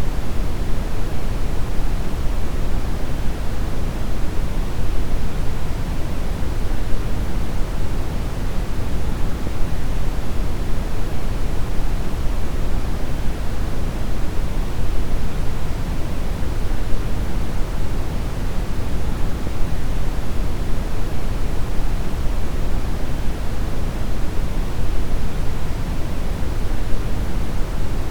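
Deep brown noise: a steady, even rumbling hiss with most of its energy in the low end, unchanging throughout.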